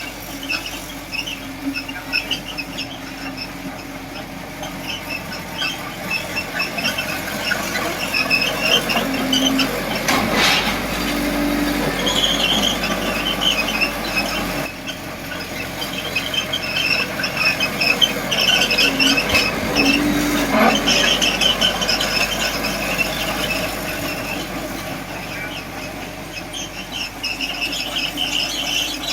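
Small crawler bulldozer working, its steel tracks squealing and squeaking irregularly over the low drone of its diesel engine, with a couple of louder moments about ten and twenty seconds in.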